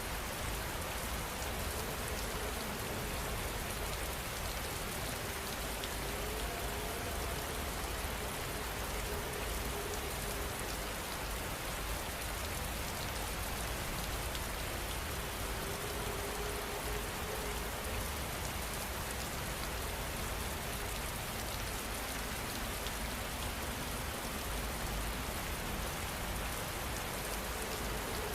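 Steady heavy rain falling and pattering on surfaces, with a deep low rumble underneath and no change in intensity.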